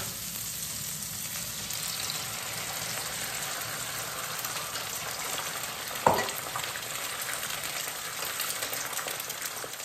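Food frying in hot oil in a pan, a steady sizzle, with one short knock about six seconds in.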